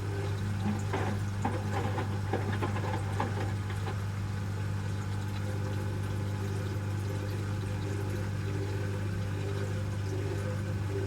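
Asko Quattro W6098X washing machine in its first rinse: a steady motor hum, with water sloshing and gurgling in the drum for the first few seconds.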